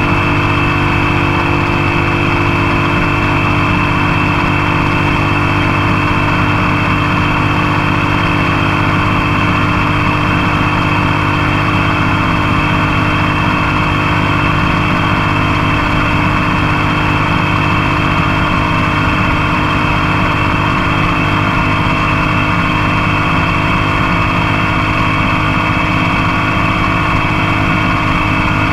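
Motorcycle engine running at a steady speed under way, with wind and road noise, picked up close to the bike at the passenger foot peg. The pitch stays the same throughout.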